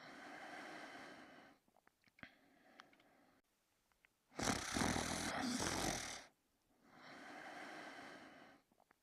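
Snoring in a slow cycle: a softer snore at the start, a loud snore about four and a half seconds in, then another softer one, with a few faint clicks in the pauses.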